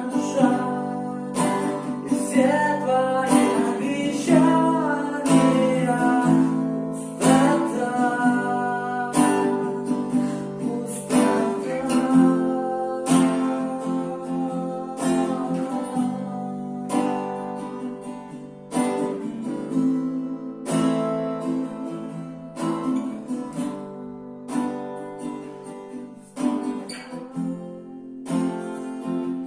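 Acoustic guitar strummed in a steady rhythm, chord after chord, playing a pop song accompaniment.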